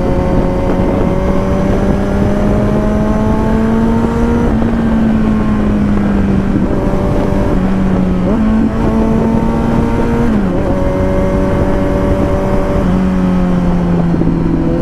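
A 2021 Kawasaki Z900's 948 cc inline-four running through a copy Akrapovic exhaust while cruising at an easy pace. The engine note holds fairly steady, stepping up and down in pitch a few times, with a longer drop about ten seconds in, over a steady rush of wind and road noise.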